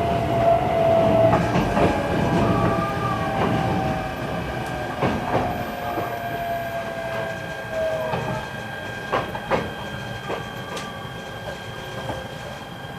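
E129 series electric train running with a Toyo Denki IGBT-VVVF inverter whine that falls slowly in pitch as it brakes to a stop at a station. The running noise fades, and scattered rail-joint clicks come further apart.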